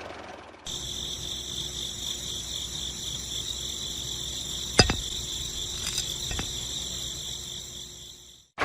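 Crickets chirping in a steady, high-pitched trill that starts under a second in and cuts off just before the end, with a few light taps or clicks around the middle.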